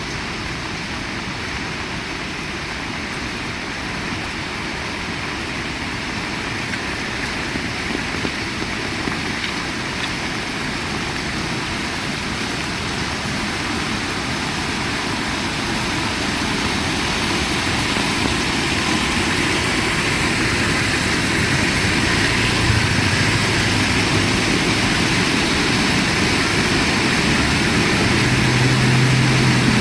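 Heavy rain falling steadily, slowly growing louder. In the last third a low engine hum comes in underneath it.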